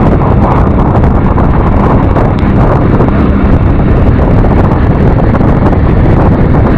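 Steady, loud wind rushing over the microphone of a moving scooter, with the Yamaha NMAX Turbo's running and road noise underneath.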